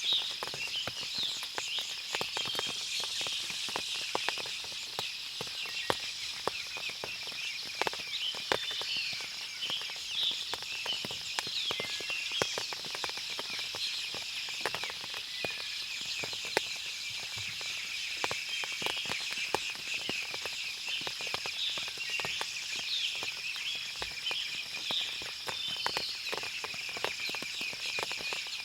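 Forest ambience after rain: water dripping from the trees in frequent small ticks, many birds chirping, and a steady high insect drone underneath.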